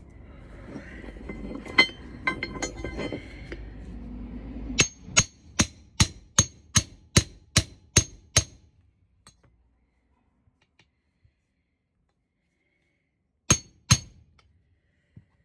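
Hammer blows on metal as the steel suspension trumpet of a Mark 1 Mini is knocked free of its rubber cone. A fast run of about ten ringing strikes, roughly three a second, is followed by two more strikes near the end, after some scrappier clinking and noise at the start.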